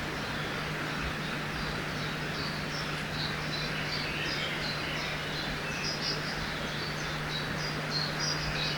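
Forest ambience by a river: the steady rush of flowing water under many small birds chirping in short, quick, high notes, which grow busier near the end. A faint steady low hum runs underneath.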